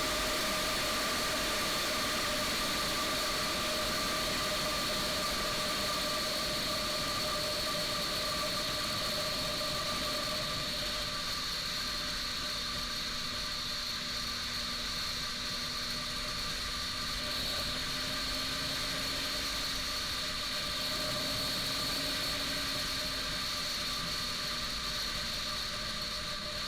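Honda CBR600RR sportbike's inline-four engine running at a steady high speed while riding, with a steady whine over a constant rush of wind noise.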